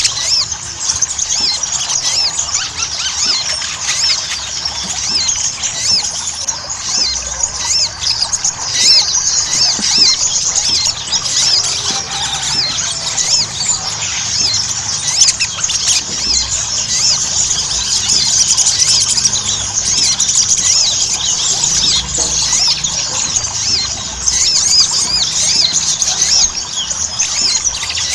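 Sogon (crimson sunbird) singing in full, excited 'gacor' voice: a continuous, rapid stream of high-pitched chirps and twitters with no pauses.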